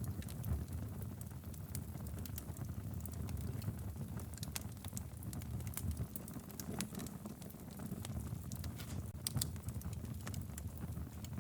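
Wood logs burning in a fireplace: frequent sharp crackles and pops over a low, steady rumble of the flames, with a few louder pops about nine seconds in.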